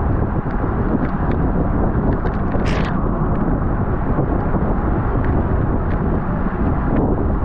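Steady wind noise buffeting the microphone of a camera riding along in a bicycle criterium race, with a few faint clicks and a brief hiss about three seconds in.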